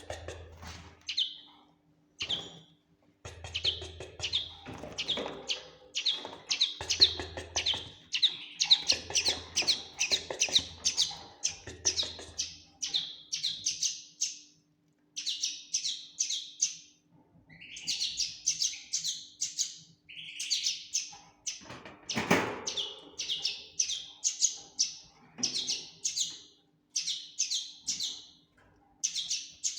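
Young common linnet singing: long runs of rapid, high twittering notes broken by short pauses, over a faint steady hum. A single dull knock about two-thirds of the way through.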